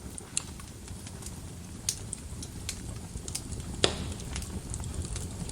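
Wood fire crackling in a fireplace: irregular sharp pops and snaps over a steady low rumble of flames, with the loudest pop a little under four seconds in.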